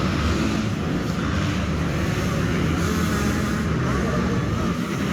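Motocross dirt bike engines running: a steady, dense engine noise.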